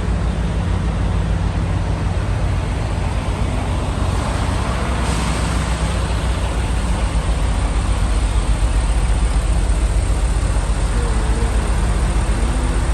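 Semi-truck diesel engine running steadily, a low, even rumble.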